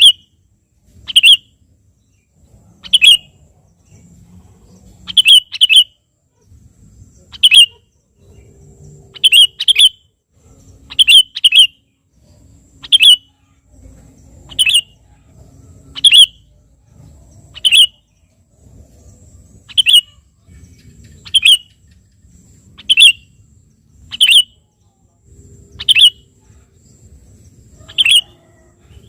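Sooty-headed bulbul (kutilang) calling to a rival: short, sharp, high notes, singly or in quick pairs, about every one to two seconds.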